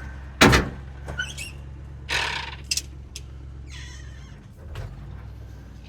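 A loud knock about half a second in, then a few lighter knocks and clatter, over a steady low hum that stops a little past halfway through.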